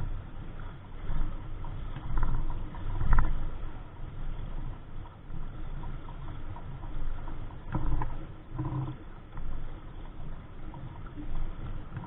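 Wind rumbling on the microphone aboard a small sailboat, rising and falling in gusts, with a few brief louder bumps about three and eight seconds in.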